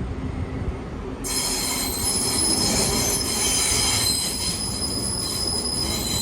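Train running on the rails with a low rumble, joined suddenly about a second in by a sustained high-pitched metallic squeal made of several steady whistling tones.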